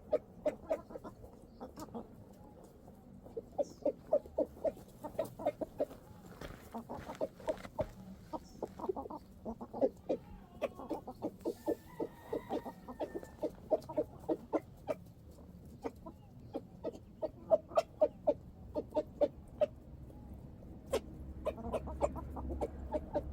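Domestic chickens clucking in quick, repeated runs, with sharp ticks mixed in.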